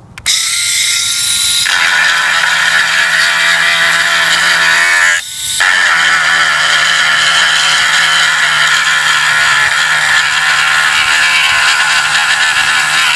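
Cordless Dremel Multi-Pro 770 rotary tool fitted with three cutoff discs, spinning up with a thin whine and then grinding on the plastic top tank of a radiator to rough it up for an epoxy patch. The grinding stops briefly about five seconds in, then carries on steadily.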